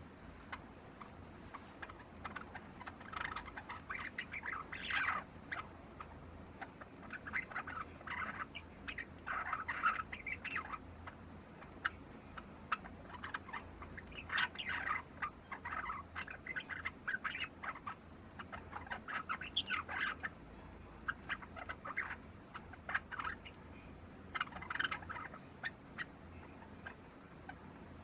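Young Java sparrow, a little over three months old, practising subsong: rambling bouts of clicks and chirps a few seconds long, with short pauses between. Subsong is the early practice stage of learning its song.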